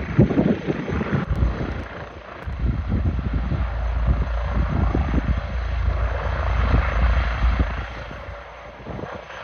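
Helicopter rotor and engine with a deep low rumble, growing louder through the middle and fading near the end.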